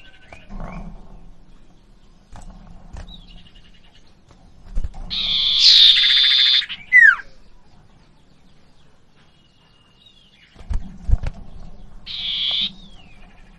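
Common iora (cipoh) calling: two loud, harsh, buzzy chatters, each ending in a quick falling whistle, with thin high whistled notes between them. Faint low knocks sound underneath.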